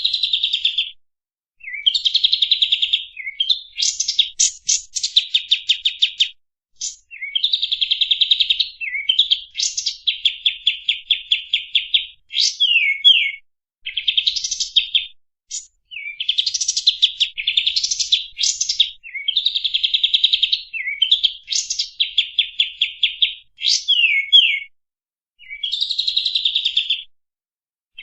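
Kapas tembak songbird singing in a master recording for tutoring caged birds: back-to-back phrases of rapid chattering, trilled notes, each a second or two long with brief pauses between, some ending in quick falling whistles.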